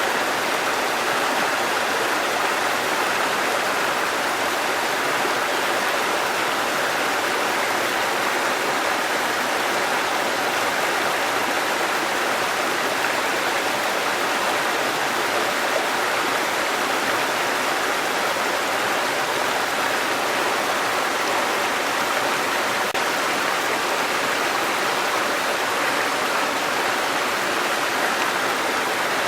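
Waterfall and running water rushing steadily, an even unbroken noise with no other events.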